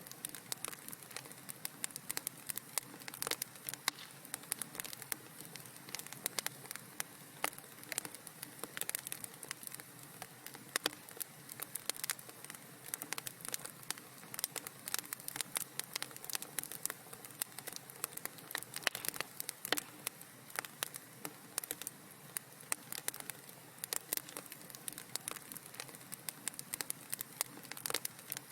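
Wood fire crackling in a fireplace: a steady soft hiss with dense, irregular pops and snaps.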